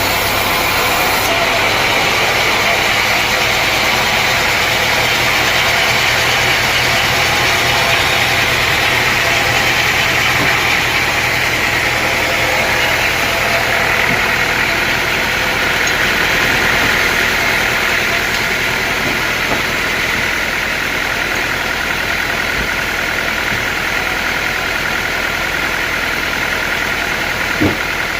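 Sawmill machinery running steadily, an engine-driven mill giving a dense, even noise throughout, with a single short knock near the end.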